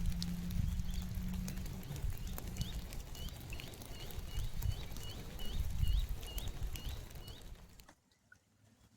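Rain dripping and pattering with a low wind rumble, while a bird repeats a quick series of short, rising whistled notes, about three a second, for several seconds. Everything drops away sharply shortly before the end.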